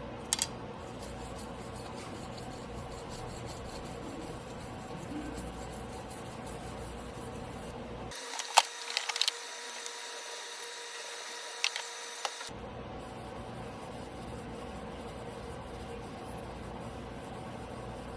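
Steady mechanical hum with a few sharp clicks and knocks, the loudest a cluster about halfway through.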